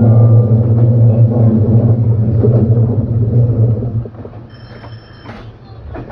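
Electric commuter train heard from inside the car, running with a steady low hum and rumble that drops away sharply about four seconds in. A brief high, steady tone sounds near the end.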